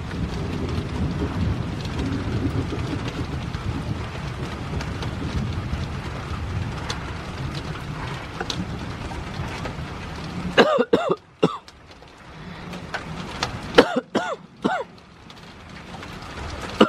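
Wind rumbling on the microphone with rain for about ten seconds, then dropping away abruptly. A person then coughs several times in two short bouts.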